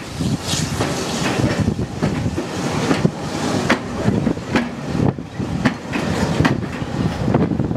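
Heritage railway passenger coaches rolling past, a steady low rumble from the wheels with irregular clicks and knocks as they cross rail joints.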